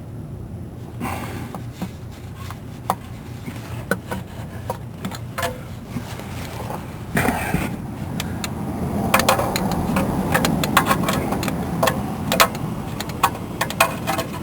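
Irregular clicks and knocks of hand tools and metal parts being handled during a starter replacement, with a busier stretch of rapid rattling clicks about two thirds of the way through.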